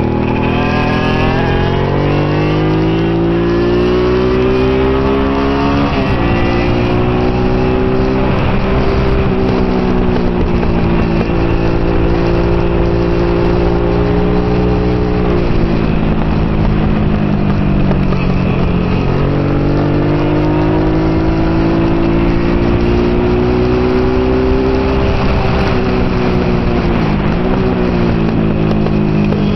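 Honda Hawk GT (NT650) 650 cc V-twin engine at race pace, heard from the bike itself: the pitch climbs under throttle and drops back several times at gear changes and braking into corners, over a steady rush of noise.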